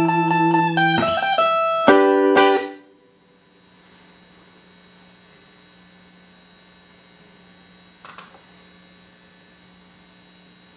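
Clean electric guitar chords through a Boss DD-8 digital delay, ringing with two sharp strums, then stopping abruptly about three seconds in. A steady amplifier mains hum follows, with a faint click near eight seconds.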